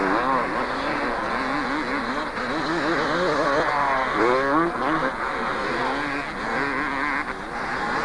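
Several two-stroke motocross bikes racing on the track, their engines revving up and down repeatedly as they accelerate, shift and shut off, with the pitches of different bikes overlapping.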